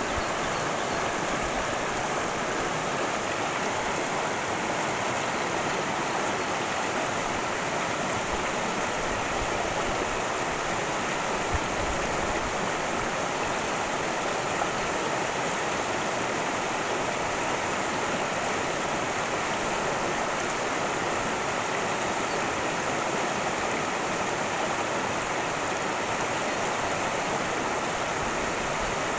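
Cascading creek water rushing steadily over rocks, an even, unbroken rush.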